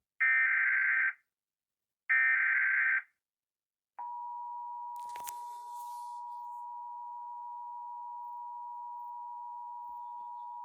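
Emergency Alert System tones: two roughly one-second bursts of the SAME digital header, a harsh data screech, then about four seconds in the steady two-tone EAS attention signal starts and holds. A brief click sounds about a second after the attention tone begins.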